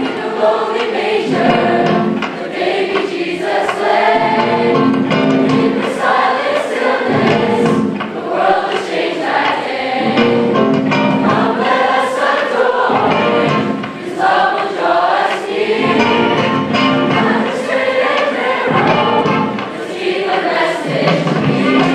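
Choir of massed voices singing a gospel song.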